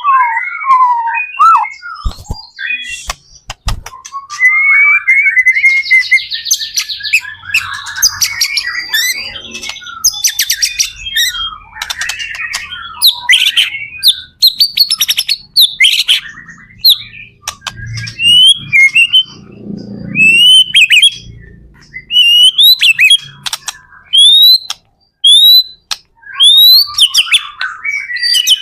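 White-rumped shama (murai batu) singing a loud, varied song of whistled glides, rapid trills and clicking notes. In the last several seconds it repeats a short rising whistle about once a second.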